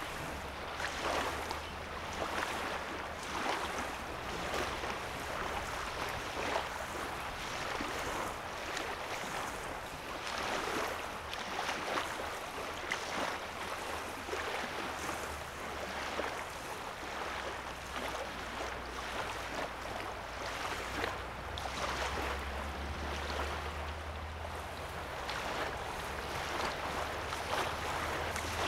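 Small waves lapping on a calm lake's sandy shoreline, soft washes repeating about once a second. A low hum sits underneath, coming and going and strongest in the second half.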